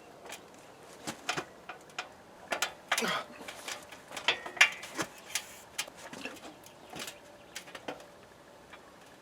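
Hammer striking a steel rod to bend a new handle: irregular metallic knocks and clanks, the loudest about four and a half seconds in with a brief ring.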